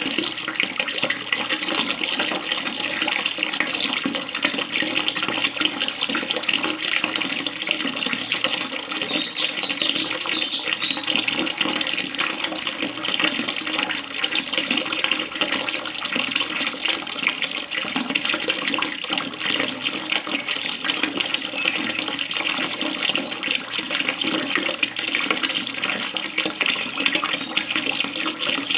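Running water splashing and trickling steadily, with a short burst of quick, high bird chirps about nine seconds in.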